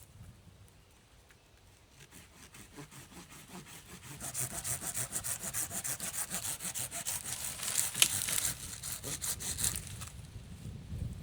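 Hand saw cutting through wood in quick, even back-and-forth strokes. The strokes build up about two seconds in and stop about ten seconds in, with one sharper crack near the middle.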